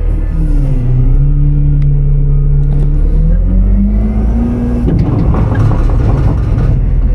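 Autocar-Heil Freedom front-load garbage truck's engine running under load, its pitch rising from about three seconds in as it revs up. A rough, noisy rattle joins it about five seconds in.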